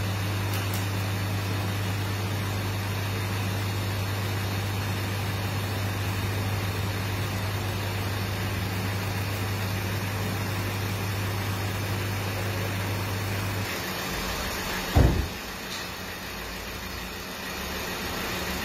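A steady low mechanical hum that stops suddenly about fourteen seconds in, followed a second later by a single loud low thump, with a quieter running sound after it.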